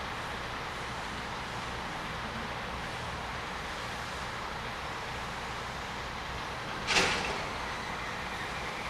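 Steady running noise of a train at a station, with one sharp bang about seven seconds in, followed by a faint high squeal.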